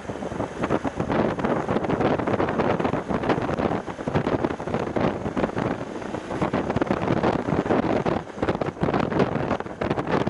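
Heavy wind buffeting the action camera's microphone on a moving motorcycle, a loud, fluttering rush that hides most of the bike's own sound.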